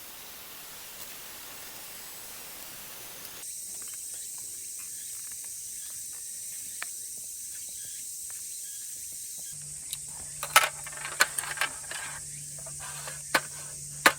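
An even hiss for the first few seconds, then a steady high-pitched cicada drone. In the last few seconds, a run of sharp knocks and clicks over a low steady hum.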